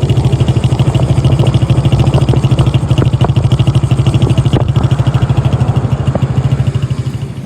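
Motorcycle engine running steadily with an even, rapid exhaust beat, dying away just before the end.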